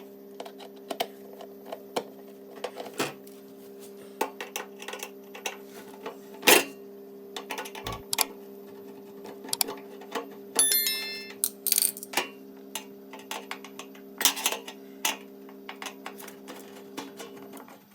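A steady low hum with many light clicks and knocks scattered through it, as of objects being handled; one louder knock about six and a half seconds in. The hum cuts off suddenly near the end.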